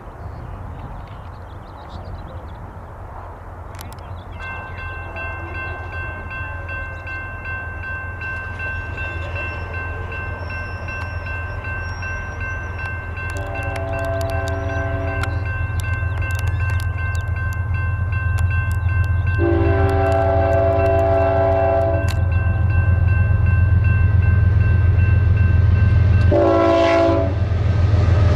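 Electronic railroad crossing bells start ringing a few seconds in as a freight locomotive approaches, its engine rumble growing steadily louder. The locomotive horn sounds the grade-crossing pattern of long, long, short and a final long blast that is still going at the end.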